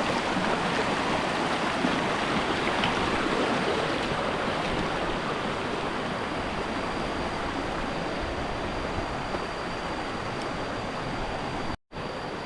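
Small waterfall and its stream rushing steadily, an even hiss of falling water, broken by a brief dropout near the end.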